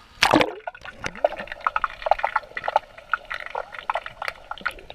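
Water splashing as the camera plunges into the pool, then bubbling and gurgling heard underwater.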